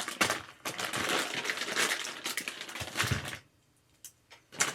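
Clattering, clicking and rustling of gaming-chair parts and packaging being handled during assembly. It stops abruptly about three and a half seconds in, followed by two faint clicks.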